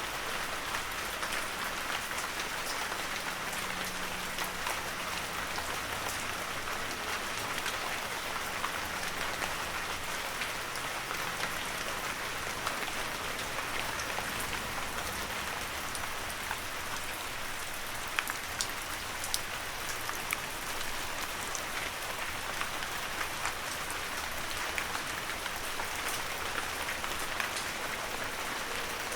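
Heavy rain falling steadily, with scattered sharp clicks of individual drops, a few louder ones about two-thirds of the way through.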